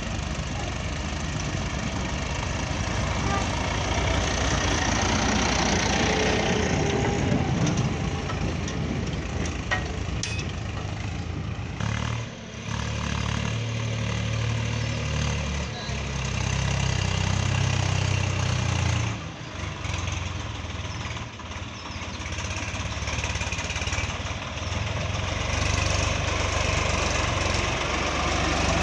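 Diesel tractor engine running steadily, its level dipping briefly twice.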